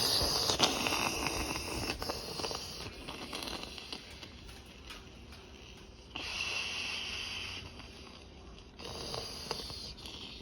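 The aftermath of a train crash: a couple of sharp knocks, then clattering noise that fades away, followed by two separate stretches of hissing about six and nine seconds in.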